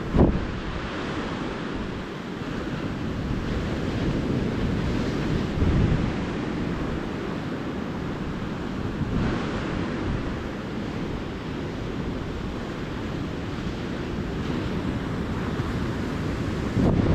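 Ocean surf breaking and washing up the beach in a steady rush, with wind bumping the microphone a few times, most sharply about a second in and again near the end.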